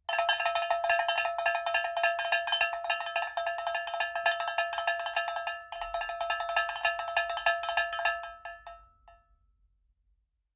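Rapid, repeated tapping on a ringing metal object, several strikes a second at the same pitches. The tapping pauses briefly a little over halfway, resumes, and dies away near the end.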